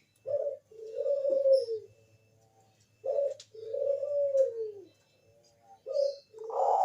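Zebra dove (Bangkok perkutut) cooing: three phrases about three seconds apart, each a short coo followed by a longer coo that rises slightly and then falls away in pitch.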